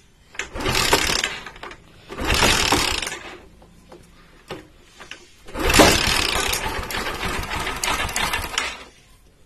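Bajaj Pulsar 135 LS four-valve single-cylinder engine running in three short bursts with its cylinder head cover off, the valve gear and timing chain clattering loudly. The longest burst lasts about three seconds near the end. The chain noise is excessive because the timing chain is loose.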